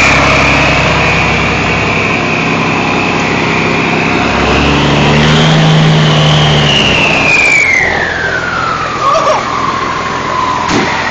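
Forestry fire tanker truck's turbocharged engine running with a loud, high turbo whistle. About five seconds in the engine revs briefly and the whistle rises, then it falls in a long steady glide as the turbo spools down toward idle.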